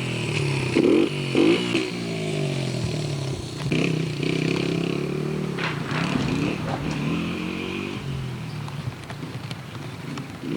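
Two-stroke dirt bike engine revving up and down as it is ridden, its pitch rising and falling again and again, with a few louder bursts in the first couple of seconds.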